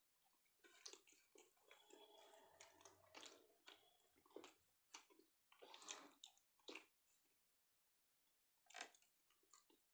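Faint chewing and wet mouth sounds of a person eating rice and fish curry by hand, with irregular soft clicks, going quiet for a moment about seven seconds in.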